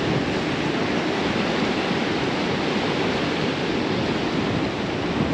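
Surf washing steadily along a beach, an even rush of breaking waves with no separate strokes.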